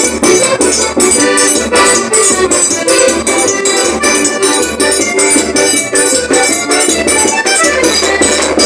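Forró trio playing an instrumental passage: accordion melody over a steady quick beat of zabumba drum and triangle.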